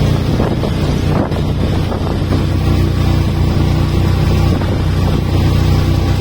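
A motorboat's engine running steadily, with wind on the microphone.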